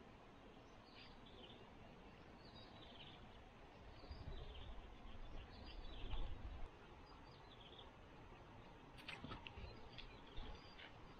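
A bird singing a short falling phrase over and over, about once a second, faint against the stream-side background. A low rumble swells in the middle, and a few sharp clicks come near the end.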